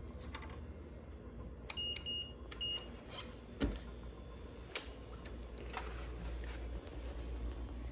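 Three short electronic beeps, then scattered clicks and knocks, the loudest a sharp knock just after the beeps, over a steady low hum.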